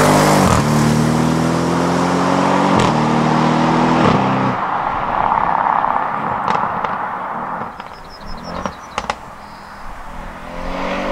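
Audi RS6's twin-turbo V8 accelerating hard, its pitch climbing and dropping back at about three upshifts over the first four and a half seconds, then fading into road noise. A few sharp ticks follow, and near the end the engine pulls up again briefly.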